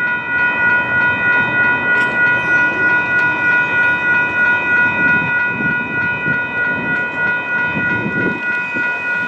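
Grade crossing warning bell ringing steadily about twice a second, with the low rumble and rail clatter of a train passing over the crossing.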